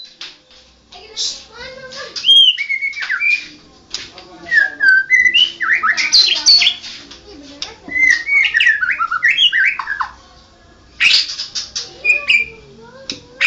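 White-rumped shama (murai batu) singing: varied whistled phrases that glide up and down, mixed with short sharp notes, in several bursts with brief pauses between them.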